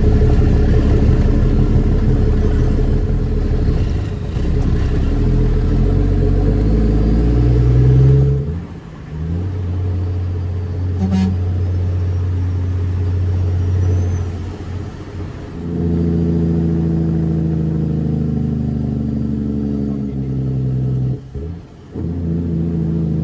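Straight-piped Caterpillar C13 diesel of a Kenworth W900B dump truck running with a deep steady drone. Its note changes and briefly drops away about eight seconds in and again twice near the end.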